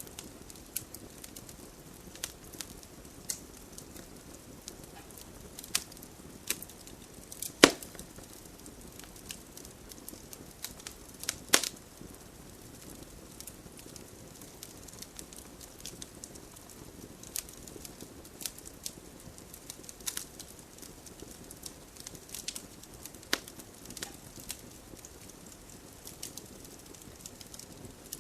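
Wood campfire crackling: irregular sharp pops and snaps over a low steady hiss of burning, with a couple of louder pops about a third of the way in.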